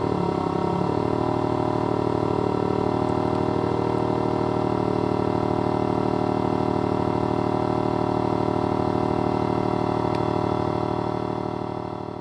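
Homemade optical engine-sound synthesizer imitating a straight-six (1JZ-GTE-style) exhaust. The revs drop and settle in the first second, then it idles with a steady, muffled burble that fades out near the end.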